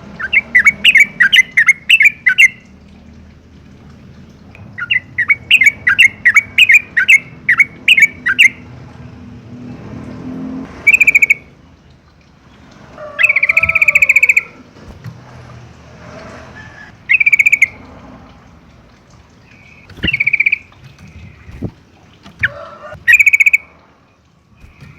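Yellow-vented bulbul calling: two bouts of rapid chattering notes in the first third, then short, clear calls every few seconds.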